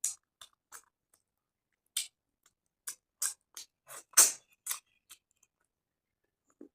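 Close-miked eating sounds: about a dozen short, irregular clicks and crunches from chewing, the loudest a little past four seconds in.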